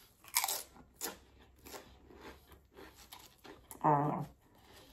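A person biting into crunchy food, with two sharp crunches in the first second, then chewing with a run of smaller crunches. A short voiced sound comes near the end.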